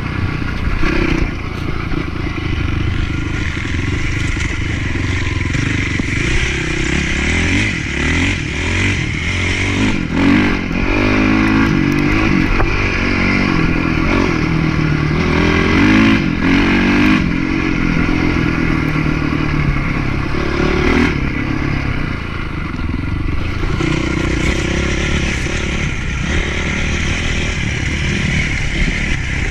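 Motocross bike's single-cylinder four-stroke engine, most likely a Honda CRF450, being ridden hard: its pitch keeps rising and falling with throttle and gear changes.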